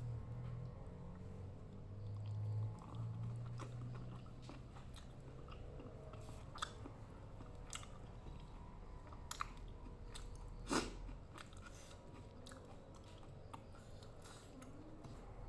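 Close-up chewing and biting of rujak (rice cake, cucumber and vegetables in sambal), with a few sharp crunchy clicks, the loudest about eleven seconds in. A low hum sounds in the first few seconds.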